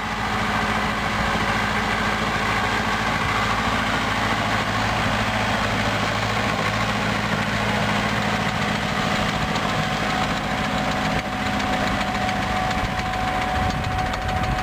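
Tractor engine running steadily, loud and even, with a faint higher steady tone joining about halfway through.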